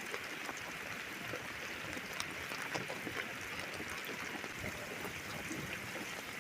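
Heavy rain falling steadily during a thunderstorm: a dense even hiss with scattered sharp drop ticks.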